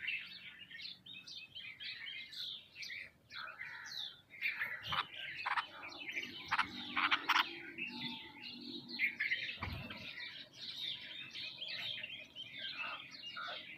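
A feeding flock of sparrows and mynas chirping busily, many short calls overlapping. There is a soft low thump just before ten seconds in.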